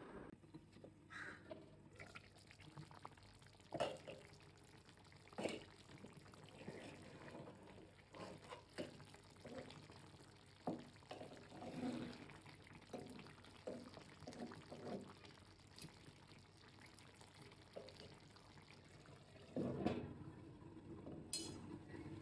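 Water pouring and splashing, with scattered small knocks and clinks of handling throughout.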